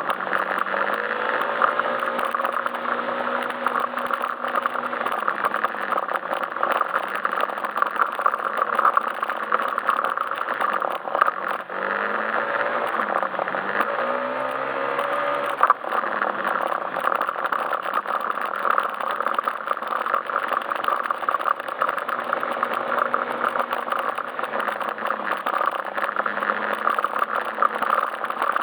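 Yamaha Majesty S scooter's single-cylinder engine running while ridden, its pitch rising and falling several times with the throttle, under a continuous rush of wind and road noise.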